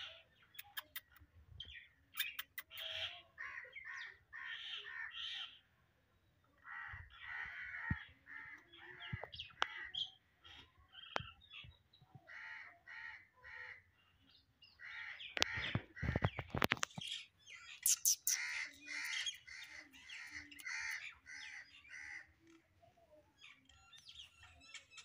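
Birds chirping and calling in runs of short, quickly repeated notes throughout, with a brief low rumble about two-thirds of the way through.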